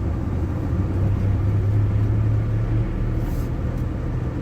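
ZMZ-405 four-cylinder petrol engine of a GAZ Gazelle van running under way, heard from inside the cab with road noise: a steady low drone that swells for a couple of seconds about a second in.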